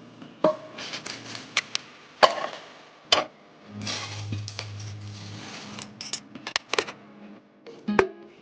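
Irregular sharp clicks and knocks of objects being handled, about a dozen of them, the loudest about two seconds in and near the end, with a low hum in between.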